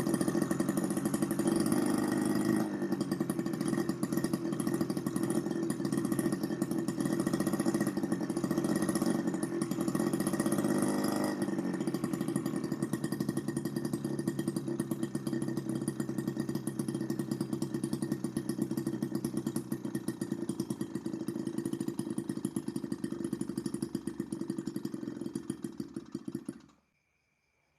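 Miniature two-stroke engine, home-built from a refrigerator compressor, running with a rapid buzzing beat. It gets louder twice in the first half. Then it grows steadily quieter and cuts out abruptly near the end.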